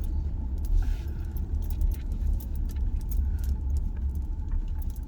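Car driving slowly, its low, steady road and engine rumble heard from inside the cabin, with light, irregular clicking rattles throughout.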